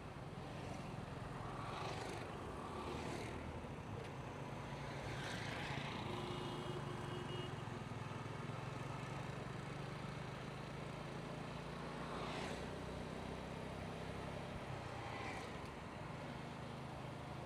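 Motorcycle engine running steadily while riding on the road, with road and traffic noise and several brief rushes of sound as traffic passes.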